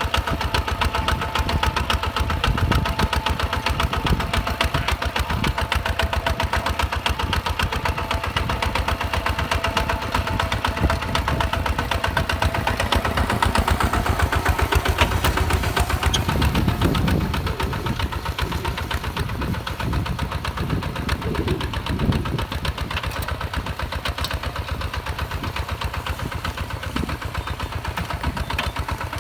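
Single-cylinder 155 DI diesel tractor engine running steadily with a fast, even chugging beat. It drops a little in loudness about halfway through.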